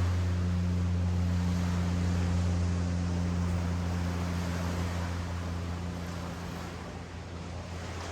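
Ocean surf washing on the beach under a steady, low engine hum that slowly fades away.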